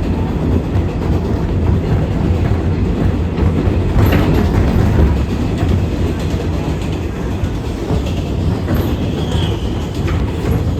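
Interior of an R188 subway car running at speed on the 7 line: a steady loud rumble of wheels on rail with scattered rail-joint clicks. There is a brief, faint high-pitched wheel squeal near the end.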